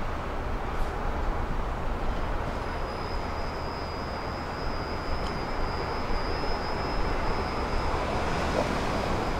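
Rumble of an approaching train at a level crossing, building slightly, with a thin steady high-pitched whine that sets in a couple of seconds in.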